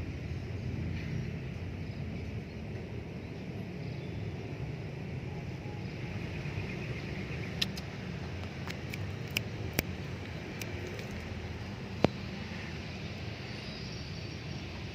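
Steady low rumble of a vehicle, with a scatter of sharp clicks in the second half, the loudest a single click near the end.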